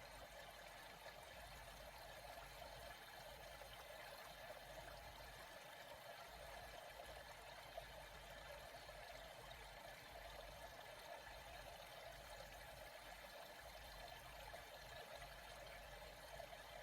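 Faint, steady trickling and flowing water.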